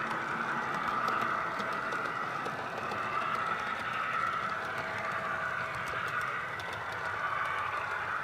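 HO-scale model F3 diesel locomotive running, its TCS WOW sound decoder playing a steady diesel engine sound through the model's small speaker, with faint clicks scattered throughout.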